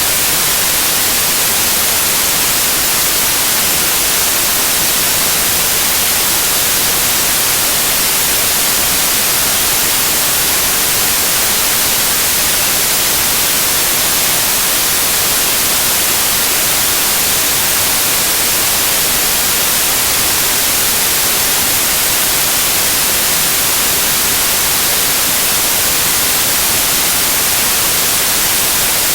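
Loud, steady white noise: an unchanging hiss with no tone or rhythm, strongest in the high frequencies.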